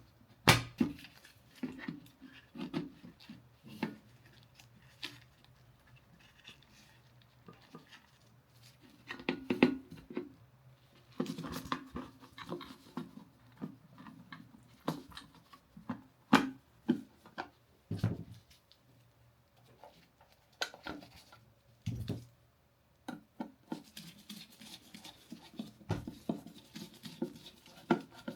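Hands handling and fitting small plastic and metal parts of an electric kettle: irregular clicks, taps and knocks with short bouts of rubbing and scraping.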